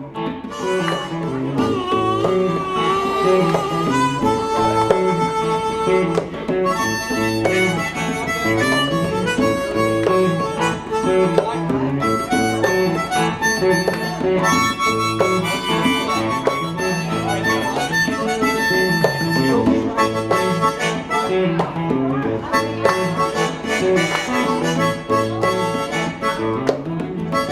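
Live band playing an instrumental break, with a harmonica taking the lead solo over guitar and a steady rhythm backing.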